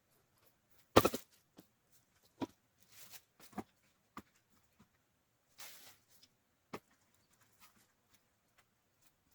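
Split firewood knocking together as logs are set onto a woodpile: one sharp clack about a second in, then scattered lighter knocks and a brief scrape.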